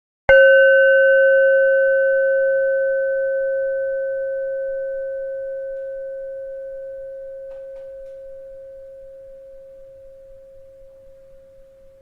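A bell struck once just after the start, ringing on one clear steady note with a few fainter higher overtones, then slowly fading over about eleven seconds before it cuts off suddenly near the end.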